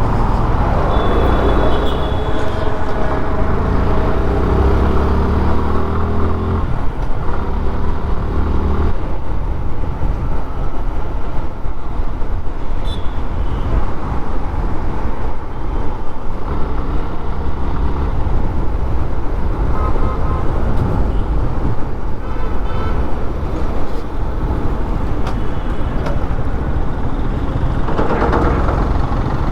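Suzuki Gixxer FI ABS's single-cylinder engine pulling hard, its pitch rising through two gears over the first nine seconds or so, then running at a steadier speed. Road and wind noise and surrounding Dhaka traffic run underneath.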